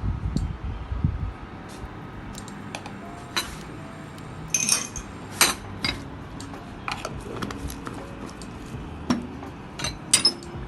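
Kitchen utensils clinking and tapping irregularly against a bowl and jar while mustard is spooned into a chicken marinade, with a dull low knock in the first second.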